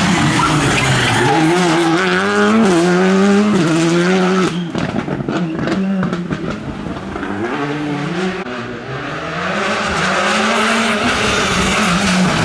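Rally car engine pulling hard through the gears, its pitch climbing and dropping at each shift. About four and a half seconds in it lifts off, with a few seconds of sharp crackles and pops, then accelerates again.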